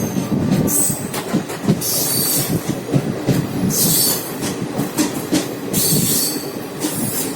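Express train running along the track: the wheels clatter over rail joints in uneven knocks, and a bright hissing noise swells up and dies away four times, about every two seconds.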